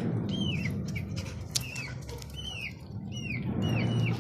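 A flock of birds calling: short chirps that slide down in pitch, overlapping several times a second, over a low rumble. A sharp click about a second and a half in.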